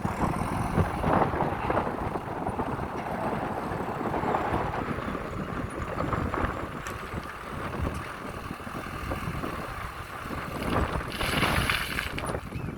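JCB backhoe loader's diesel engine working, with gravel rattling and pouring in uneven surges; a louder, hissing rush of gravel about eleven seconds in.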